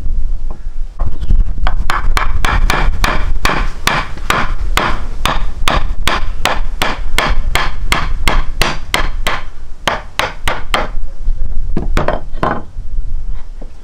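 A fast, even run of sharp knocks or strikes, about three a second, lasting some nine seconds and stopping near the end, with two more strikes just after. Low wind rumble on the microphone runs underneath.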